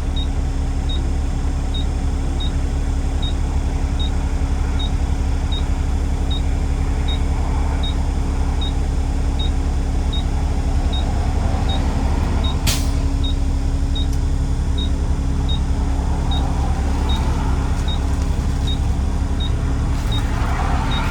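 Vehicle driving steadily on the road, a constant low engine and road rumble. A faint tick repeats about every three-quarters of a second, and a single sharp click comes a little past halfway.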